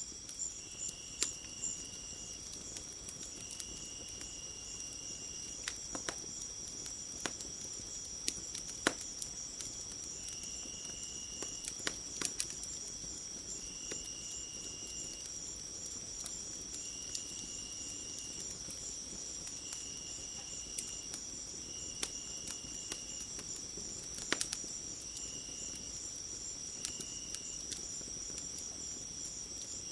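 Night insects, likely crickets, trilling in a steady high chorus, with a lower insect note about a second long repeating every two to three seconds. Scattered sharp crackles and pops from a wood fire sound over it.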